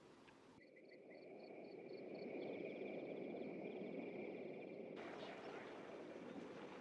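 Faint wildlife ambience: a soft low hiss with high, rapid, repeated chirping trills from small creatures. The chirping starts about half a second in and stops about five seconds in.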